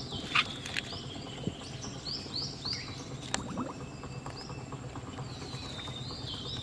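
A bird chirping over and over in short, curved high notes, with a few sharp knocks or clicks, the loudest one near the start.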